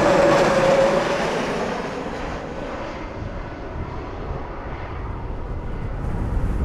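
Jet airliner passing overhead, its engine whine sinking slightly in pitch and fading away over the first two seconds, leaving a low rumble.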